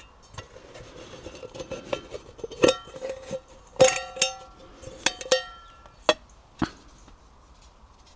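Metal camp cookware being handled: a series of sharp metallic clinks, about seven, several of them ringing briefly, the loudest ones near the middle.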